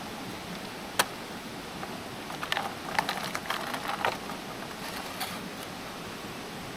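A single sharp click about a second in, then a couple of seconds of light clicking and clattering of small hard objects being handled, over a steady hiss.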